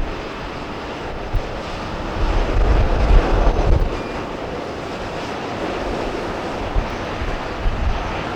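Boeing 737-800's CFM56 turbofan engines running steadily, with strong gusts buffeting the microphone, loudest about two to four seconds in.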